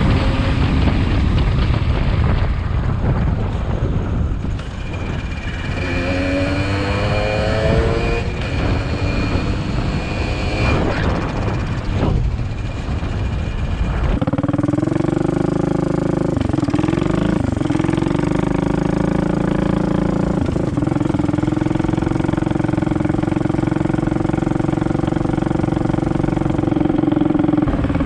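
Small pit-bike engine heard with wind rush on the microphone while riding, the revs rising several times in the first half. About halfway through it settles into a steady engine note, dipping briefly a few times.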